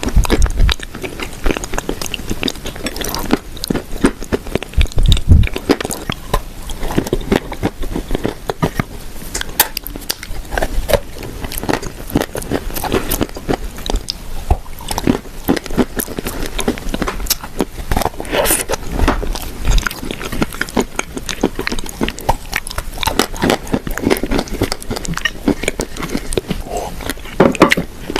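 Close-miked biting and chewing of dry, crumbly food, a dense irregular stream of small crunches and clicks.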